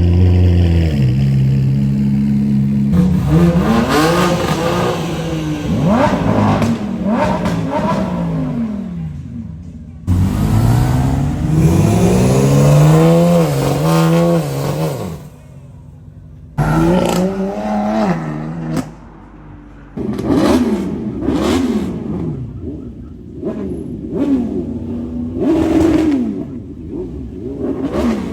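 Car engines revving and accelerating, their pitch climbing and falling again and again, in a run of short clips that cut off abruptly from one to the next.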